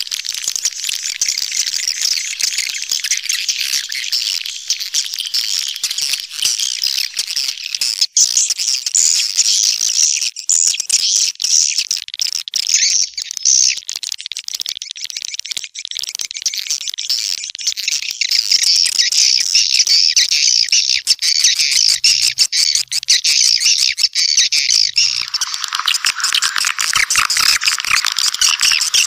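Swiftlet calls: a dense, continuous, high-pitched chattering and twittering. About 25 s in, a lower-pitched layer of calls joins in.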